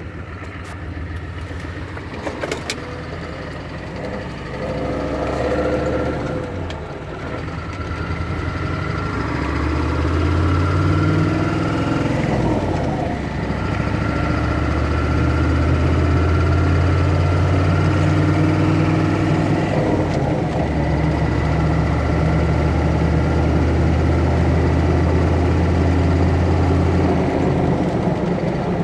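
Turbocharged car engine running under changing load, a steady low drone that rises in pitch about ten seconds in, holds, and dips briefly near twenty seconds. A sharp click comes about three seconds in. The owner is listening for signs of a failing turbo.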